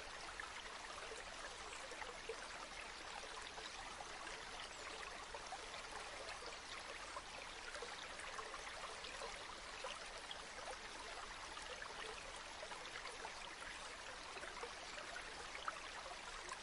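River water flowing steadily over stones: an even rushing hiss dotted with small trickles and splashes.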